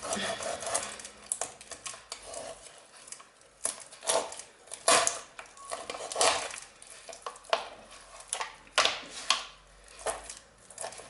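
Irregular clinks and knocks of a knife and dishes against each other and the work surface while a raw partridge is handled.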